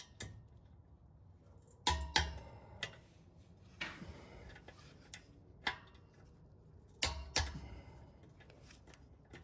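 Sharp metallic clicks and clinks of hand tools (sockets and wrenches) on exhaust hardware, coming one at a time with a brief ring. The loudest come in close pairs, about two seconds in and again about seven seconds in.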